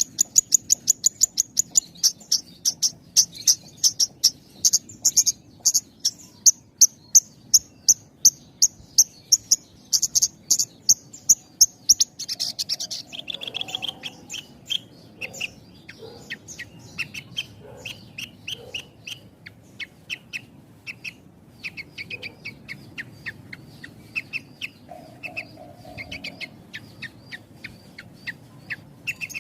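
Horsfield's bush lark (branjangan) singing in short, closely spaced phrases: a fast string of sharp, high notes, about four a second, for roughly the first twelve seconds. Then the song drops into a quieter, quicker run of lower notes.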